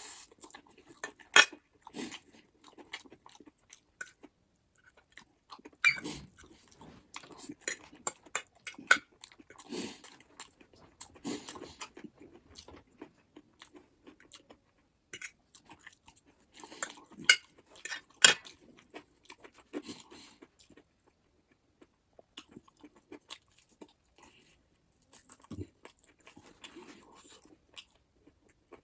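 Close-miked mukbang eating sounds: chewing and crunching with sharp wet clicks, coming in irregular bursts and thinning out near the end.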